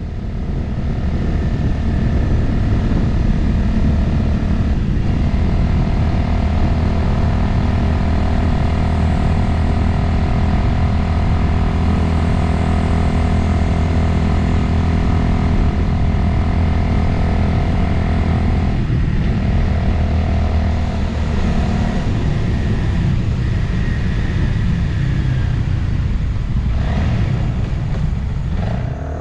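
Motorcycle engine running at a steady cruise, with wind rushing over the microphone. The engine note dips briefly about five seconds in and again about two-thirds of the way through.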